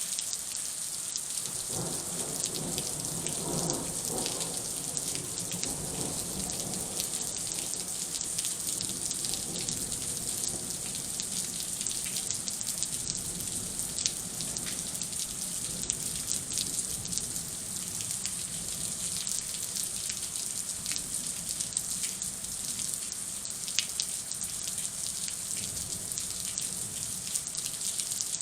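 Heavy thunderstorm rain falling steadily, a dense hiss full of small sharp drop ticks. A low rumble comes in about two seconds in and fades over the next few seconds.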